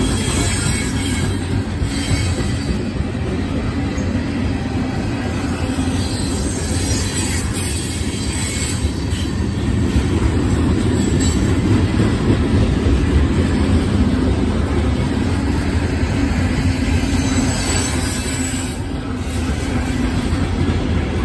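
CSX coal train's gondola cars (coal tubs) rolling past: steel wheels running steadily on the rails in a continuous loud rolling noise.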